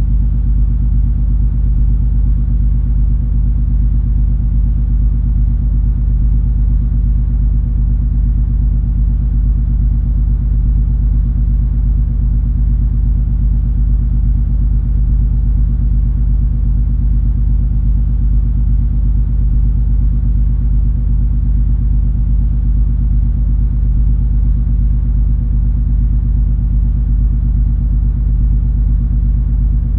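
Steady low drone and rumble of the cruise ferry MS Color Magic's engines, heard aboard under way, with a few even hums beneath and no change.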